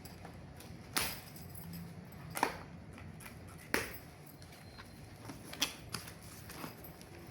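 A few sharp taps and clicks at irregular intervals, over a low steady hum.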